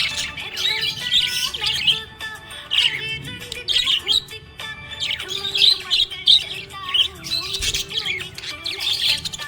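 Budgerigars chirping and warbling in quick, busy, overlapping calls, with background music underneath.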